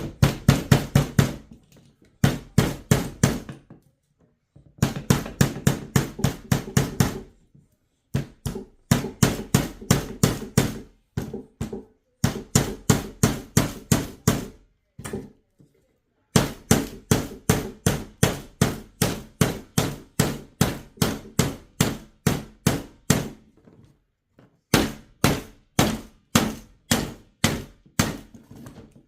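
A hammer tapping small nails into a wooden beehive frame, in quick runs of about five or six blows a second with short pauses between runs. The work rests on a plastic table that gives and bounces under the blows.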